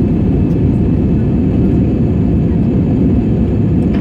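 Steady roar of jet engines and rushing air heard from inside the cabin of an Airbus A320, loud and even with no change in pitch.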